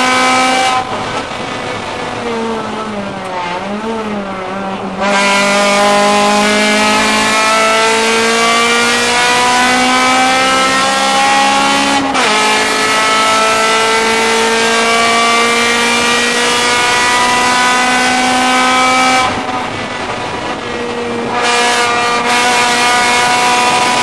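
Honda Civic race car's four-cylinder engine, heard from inside the cabin at racing speed. It lifts off about a second in, with short throttle blips as it slows for a corner, then pulls hard with steadily rising pitch, shifts up once midway with a sudden drop in pitch and climbs again, and lifts off and gets back on the throttle near the end.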